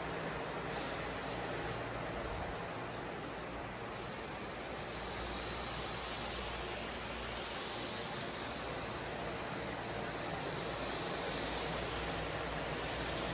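A steady hiss that brightens and swells twice.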